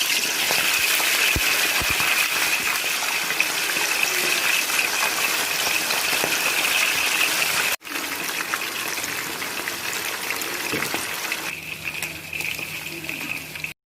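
A steady rush of falling water, in two stretches split by an abrupt cut just before the middle, easing somewhat near the end.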